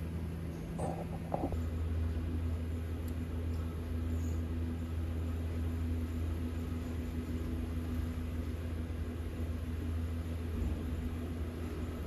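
Triumph Bonneville Bobber's 1200 cc parallel-twin engine running at a steady speed while riding: an even low drone.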